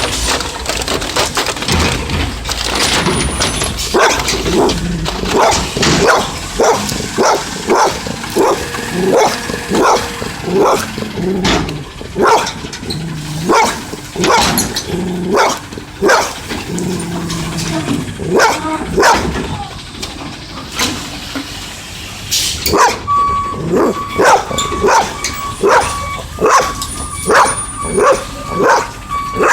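A dog barking over and over, about two barks a second. Near the end a truck's reversing beeper starts up under the barking.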